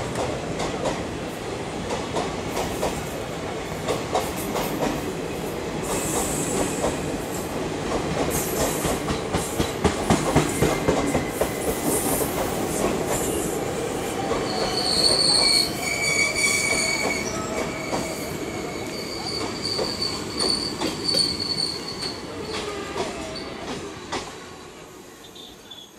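Passenger coaches of an Indian Railways ICF-rake express running past: a steady rumble and rapid clatter of wheels over the rails, with high-pitched wheel squeal in the middle stretch. The sound fades away near the end as the last coach, the guard's luggage van, goes by.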